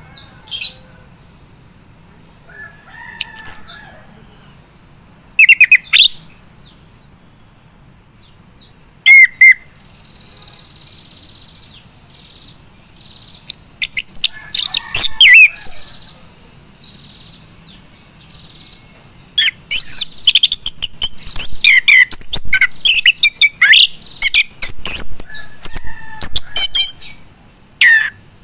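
Male chestnut-capped thrush singing in short, loud, scattered whistled phrases, breaking into a long fast run of varied notes from about twenty seconds in, over a faint steady low hum.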